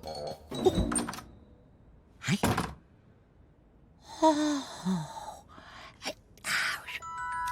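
A cartoon character's wordless gasps and grunts, several short vocal sounds with quiet gaps between them, mixed with brief noisy sound-effect swooshes.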